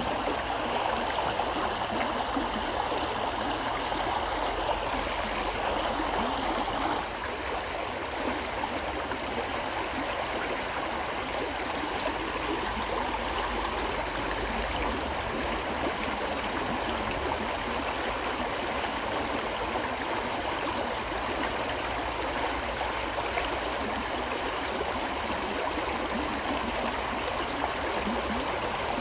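A river flowing over rocks: steady rushing and gurgling water, dipping slightly in level about seven seconds in.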